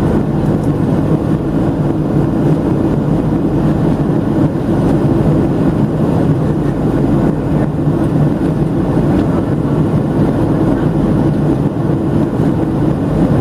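Steady roar of a Boeing 737-700's CFM56-7B jet engines and airflow heard inside the passenger cabin, a deep even drone with hiss above it.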